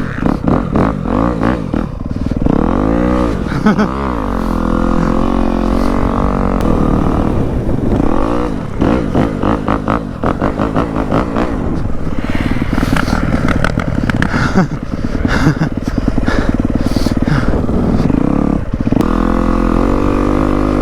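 Dirt bike engine being ridden, its pitch rising and falling again and again as the throttle is worked, with choppy stretches between the revs.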